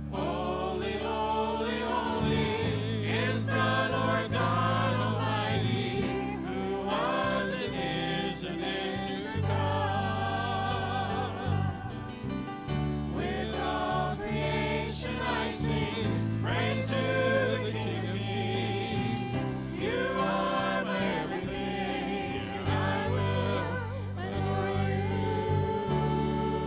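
Christian worship song: voices singing with vibrato, in phrases of a few seconds, over sustained low accompaniment chords.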